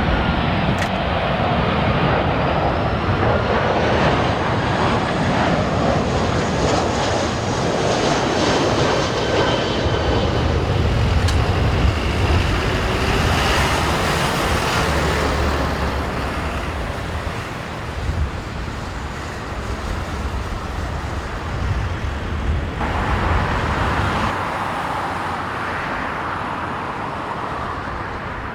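Jet airliner passing low overhead on landing approach: a continuous engine rumble with a high whine that slides slowly in pitch, easing off in the last few seconds. Strong gusty wind buffets the microphone.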